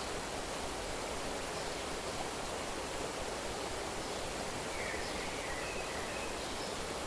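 Nature ambience recording: a steady rushing hiss with faint short bird chirps about five to six seconds in.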